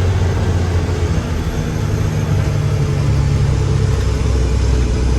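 Mack truck's diesel engine running, its pitch stepping up about a second in and dropping lower about four seconds in.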